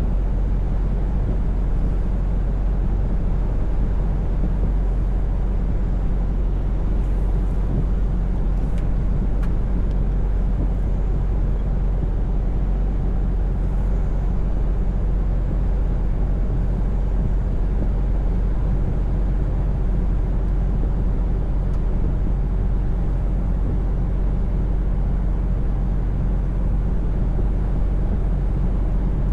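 Scania V8 truck driving steadily, its engine and tyres making a constant low drone. A few faint ticks come about seven to nine seconds in and again near fourteen seconds.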